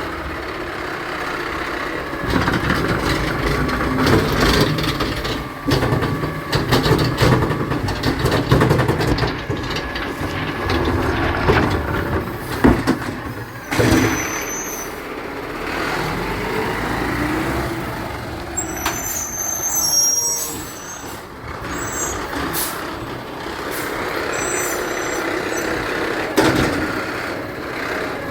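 Garbage truck running close by, its engine rumbling under clanks and knocks from the truck at work, with short high squeaks or hisses about two-thirds of the way in.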